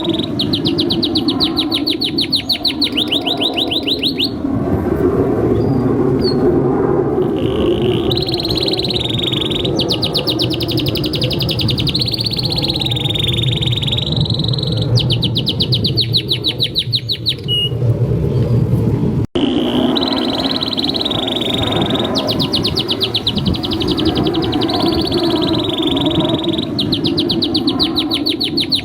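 Domestic canary singing continuously in long, rapid trills of quickly repeated high notes, one roll running straight into the next. The song cuts out abruptly for an instant about two-thirds through, then resumes.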